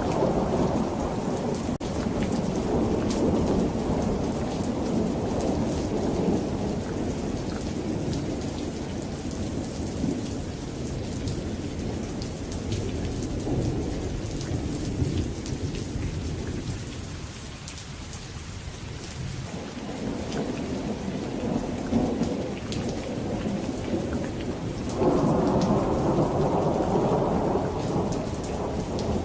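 Steady rain falling with thunder rumbling in long rolls. The rumble eases about two-thirds of the way through and swells again near the end.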